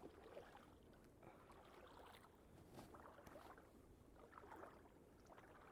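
Near silence, with faint irregular crunching and rustling of footsteps on frozen ground.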